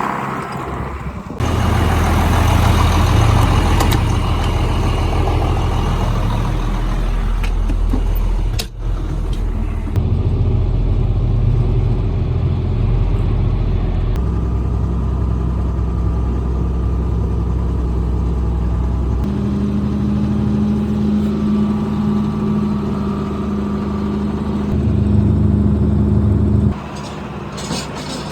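Old farm tractor's diesel engine running hard, its engine note changing abruptly several times as it works, then dropping to a quieter run near the end.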